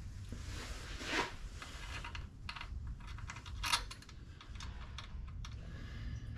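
Scattered light clicks and taps of parts and tools being handled during hand work on a tractor's water pump, with one sharper click a little past the middle.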